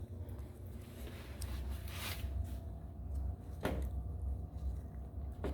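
Cat licking a Churu lickable treat: a few short, soft smacking sounds about two, three and a half, and five seconds in, over a steady low hum.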